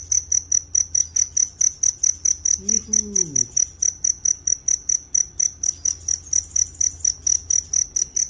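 Cricket chirping steadily, about five or six short high chirps a second, with a steady low hum beneath. A short falling vocal sound about three seconds in.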